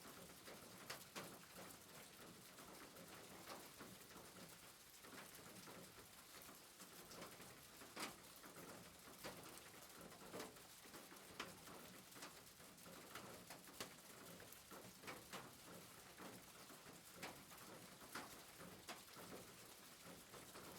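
Faint soft rain: a steady hiss with irregular drops ticking on a surface.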